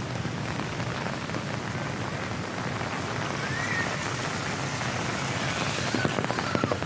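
Steady rain falling and pattering on a small umbrella held overhead, with a few light taps near the end.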